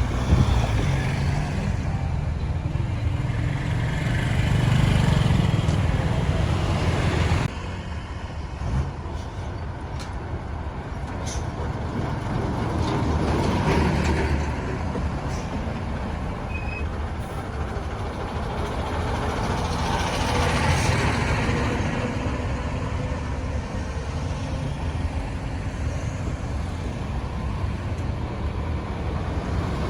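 Road traffic going by: the engine and tyre noise of passing vehicles, swelling and fading as each one passes, with a sudden drop in loudness about seven seconds in.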